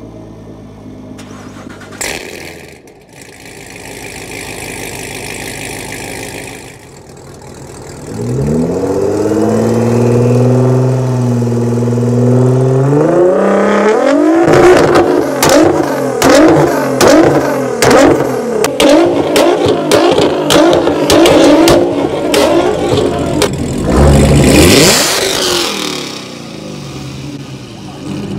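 A sports car engine is started about eight seconds in, flares and settles into a fast idle, then is revved hard in quick repeated blips with sharp crackles, ending with one more rev. A quieter engine runs before it.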